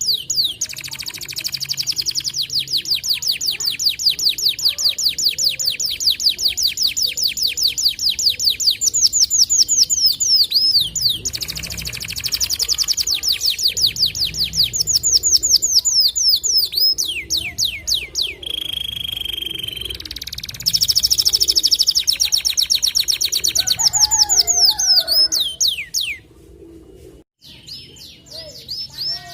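Domestic canary singing long rolls of rapidly repeated trilled notes. Partway through comes a steady held whistle, and the song breaks off a few seconds before the end.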